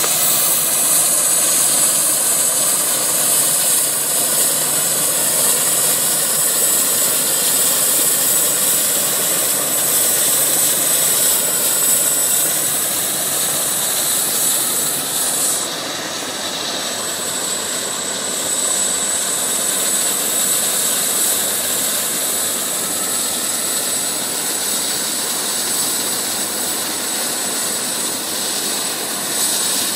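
Medical helicopter's turbine engines and rotor running, a steady loud rush with a high turbine whine over it.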